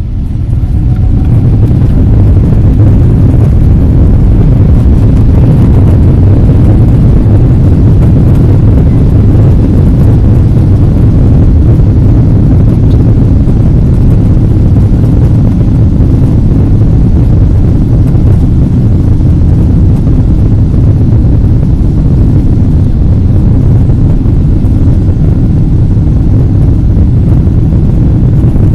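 Boeing 777-200ER's twin GE90 turbofans at takeoff thrust, heard from inside the cabin: a loud, steady low rumble that builds over the first two seconds as the engines spool up, then holds.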